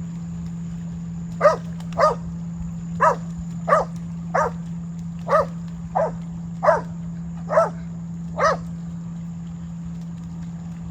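A dog barking about ten times at an even pace, over a steady low hum.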